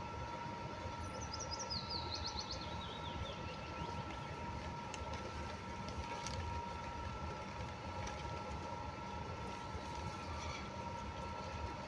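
Steady low outdoor rumble with a faint constant hum, and a small bird singing one short, quick song that falls in pitch, about a second in.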